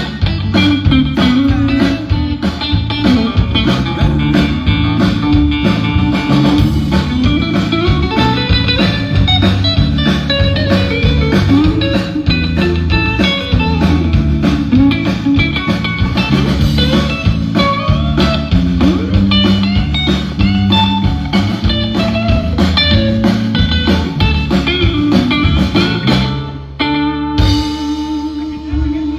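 Live band playing a blues-rock instrumental passage on guitar, with a walking low bass line and a drum kit keeping the beat. About 26 seconds in, the drums stop and a held chord rings on.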